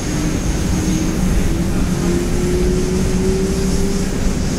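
Electric suburban commuter train running, heard from inside the carriage: a steady rumble of wheels on the track, with a whine that rises slowly in pitch as the train picks up speed.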